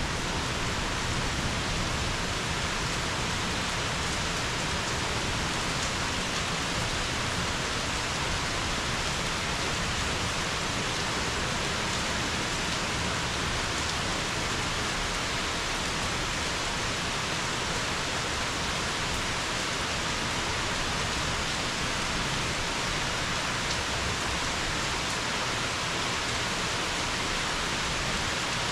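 Steady rain falling, an even hiss that does not change in strength.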